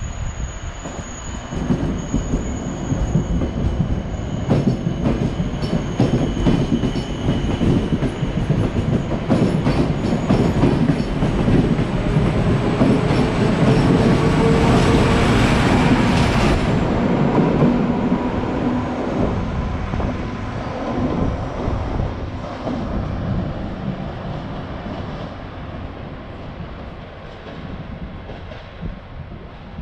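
Double-deck passenger train pulling out past the platform, wheels clicking over rail joints with a thin high squeal at first. Its ČD class 754 diesel locomotive at the rear passes loudest about halfway through, engine note rising as it accelerates, then the sound fades as the train draws away.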